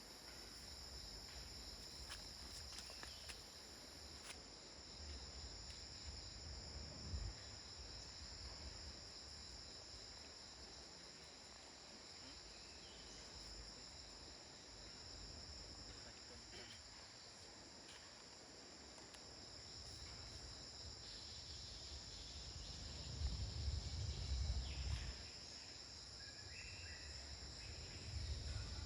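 Faint, steady high-pitched drone of insects, with low wind rumble on the microphone that swells about three-quarters of the way through.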